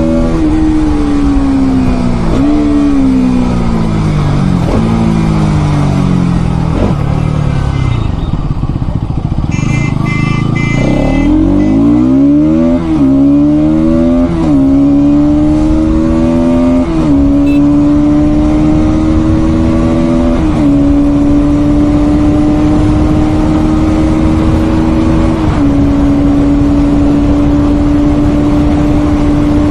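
Bajaj Pulsar NS200 BS6's single-cylinder engine on a highway run. The revs fall away for the first ten seconds or so. The bike then accelerates hard through the gears, with a sharp dip in pitch at each upshift. From about twenty seconds in it cruises at a steady pitch, with one more small shift dip.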